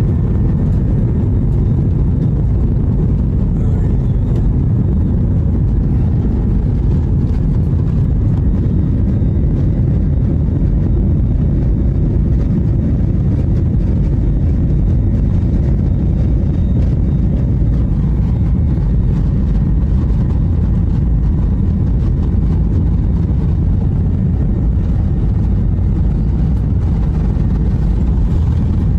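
Steady low rumble of an airliner's engines and airflow heard from inside the passenger cabin, even in level throughout.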